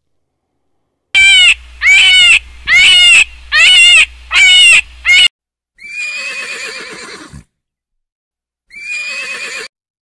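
An animal calling loudly: six short, pitched calls in quick succession, then two longer, raspier calls.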